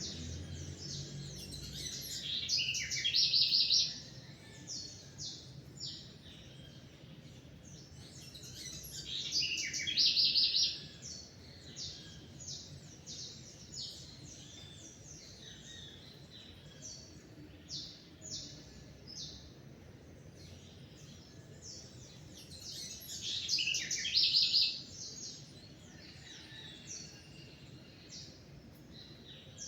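Songbirds chirping and singing: a steady scatter of short high chirps, with a louder, rapidly repeated song phrase three times, each lasting about two seconds.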